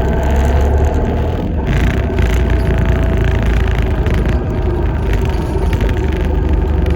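Inside a moving Alexander Dennis Enviro400 MMC hybrid double-decker bus: a heavy low rumble from the drivetrain and road, with steady whine tones from the hybrid driveline and a short burst of broader noise about a second and a half in.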